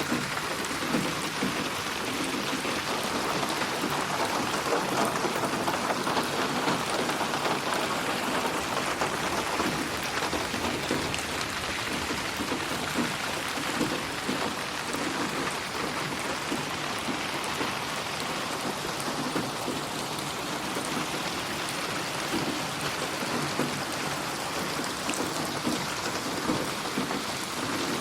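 Steady rain falling on a surface, a dense even patter of drops that keeps up without a break.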